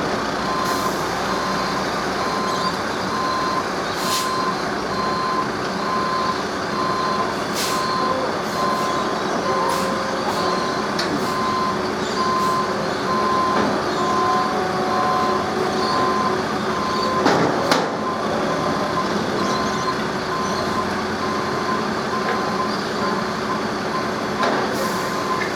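A heavy vehicle's reversing alarm beeping in a steady on-off rhythm over its running engine. A few sharp knocks sound through it, the loudest about seventeen seconds in.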